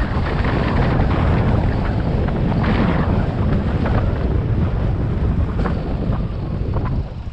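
Wind rushing over the microphone of a moving motorcycle, mixed with the low noise of the ride; it drops off near the end.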